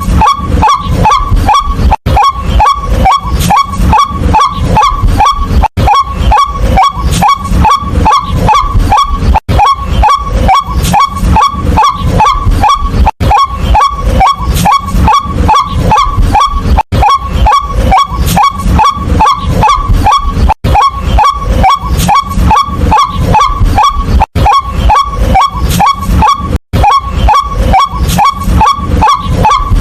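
White-breasted waterhen calling loudly, fast and monotonous, about four notes a second, with a short break every few seconds.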